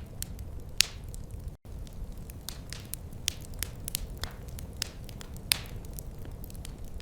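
Wood fire crackling in a fireplace: sharp pops and snaps come several times a second over a low, steady rumble. The sound cuts out completely for an instant about one and a half seconds in.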